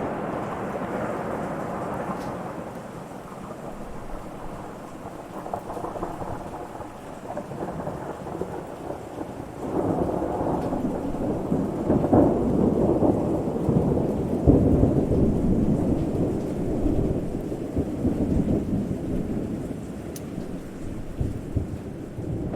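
Thunder rumbling continuously in a rainstorm. A louder, deeper roll swells up about ten seconds in and slowly dies away over the following ten seconds.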